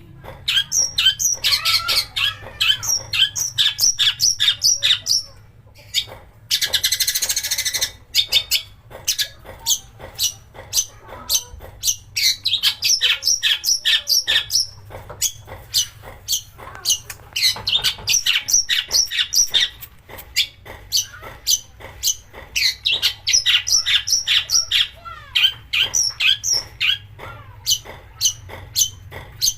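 Long-tailed shrike singing a fast, harsh chattering song of sharp repeated notes, broken by short pauses, with a rough raspy burst about seven seconds in.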